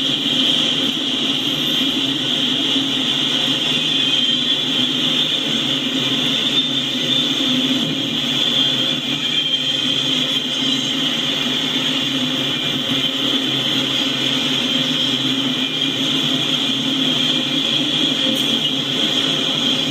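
Freight train of enclosed autorack cars rolling steadily past at a grade crossing: a continuous rumble and rattle of the cars on the rails, with a steady high ringing tone above it.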